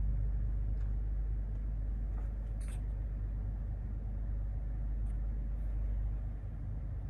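Steady low mechanical hum, with a single light click about two and a half seconds in.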